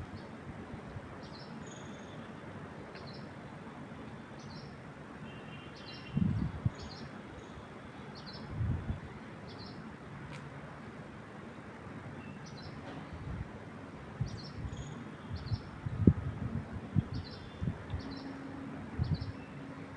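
Wind in the trees as a steady hiss, with a small bird giving short high chirps about once a second. Several brief low rumbles come and go, the loudest about a third of the way in and through the last few seconds.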